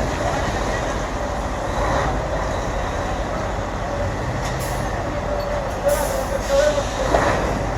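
Tadano truck-mounted crane working: the truck's engine runs steadily with a low rumble, under a thin wavering whine from the crane's hydraulics.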